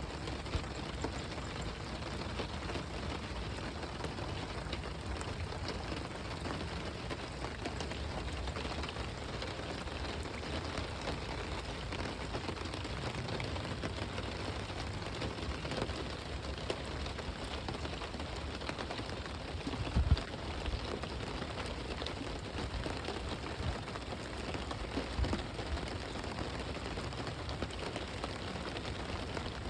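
Steady rain falling, an even hiss with a low rumble under it. About twenty seconds in there is one brief, louder thump.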